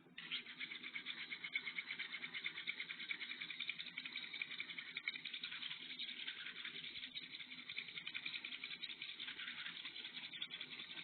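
Steel knife blade being sharpened on a ceramic sharpener: a steady run of quick scraping strokes, several a second, with a high, gritty rasp.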